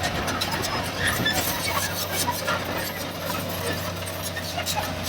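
Diesel engine of heavy earthmoving machinery running steadily at a low pitch, with scattered clinks and knocks over it.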